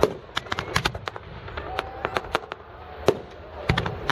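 Fireworks going off: a rapid, irregular string of sharp bangs and crackles. The loudest bangs come right at the start and about three seconds in.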